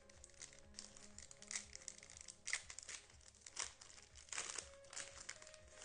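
Faint irregular crinkling and rustling of plastic as trading cards are handled and moved, with soft background music.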